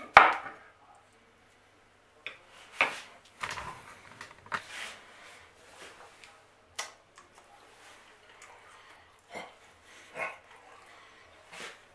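A man chewing a bite of sliced smoked pork roast, with short, irregular mouth smacks and murmurs. A loud knock comes just after the start.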